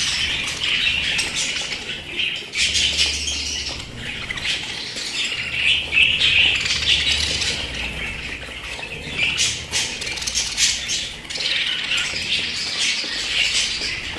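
Pet budgerigars chattering continuously, a dense mix of warbling and short sharp calls.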